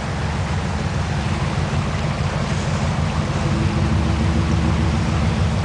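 Off-road truck engine running under load with a steady low drone that grows a little louder, as it works to pull a stuck truck up the trail.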